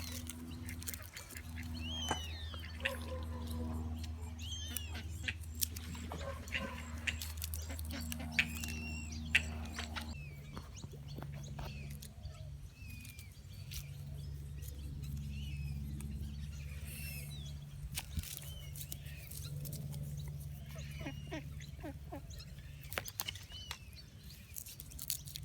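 Birds chirping in many short, repeated calls over a steady low hum.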